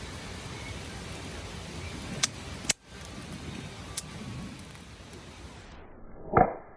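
Wood bonfire burning with a steady hiss and a few sharp pops. Near the end there is one loud knock.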